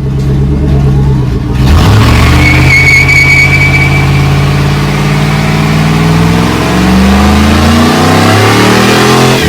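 Truck engine held at high revs during a burnout, with a loud tyre-scrubbing hiss joining about a second and a half in and a brief tyre squeal. The engine pitch climbs near the end.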